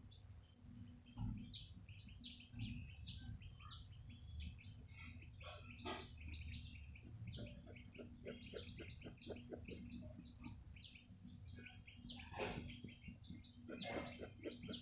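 Small birds chirping, with repeated quick down-sweeping chirps about twice a second among lighter twittering, over a steady low hum. A hiss comes in about eleven seconds in, and a few sharp knocks fall near the end.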